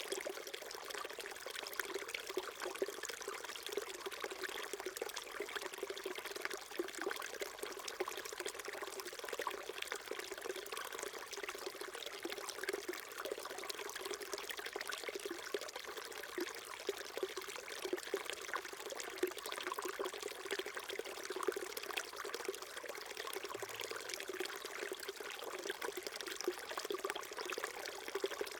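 Small mountain stream babbling and trickling over rocks, a steady, even rush of water with many small splashes.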